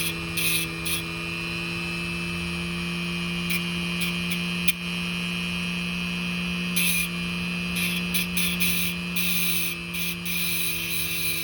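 Dremel rotary tool with a diamond wheel running at a steady high-speed whine, with several short bursts of grinding as the wheel is touched to the end of a piston ring to file its end gap wider.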